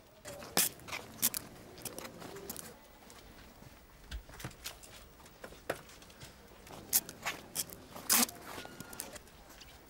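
Footsteps on pavement with scattered, irregular clicks and scrapes.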